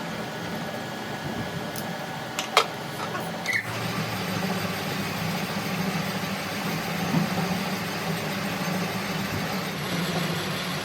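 A steady engine or motor hum that gets a little louder about four seconds in, with two sharp clicks or knocks a second apart just before.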